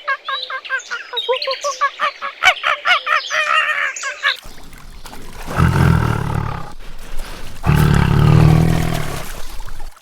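Animal calls: a rapid series of chirping calls for about four seconds, then two long, deep roaring calls.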